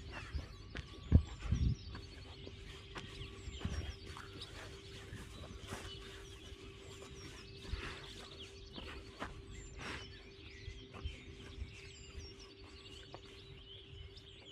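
Small birds chirping and twittering repeatedly, with a faint steady hum underneath and a couple of low thumps about a second in.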